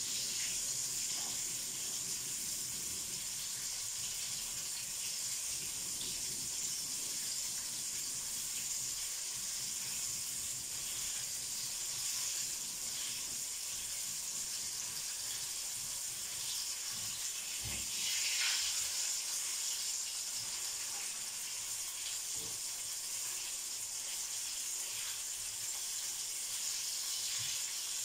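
Flour-battered chicken strips sizzling in hot oil in a frying pan: a steady, even hiss. A low knock about two-thirds of the way through is followed by a brief louder flare of sizzling.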